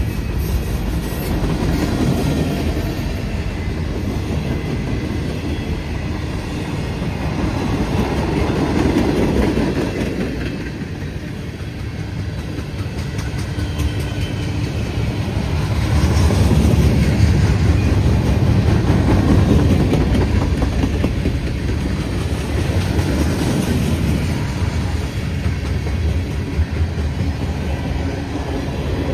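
Long mixed freight train rolling past: a steady rumble and rattle of its wheels on the rails, swelling louder and easing off as the cars go by.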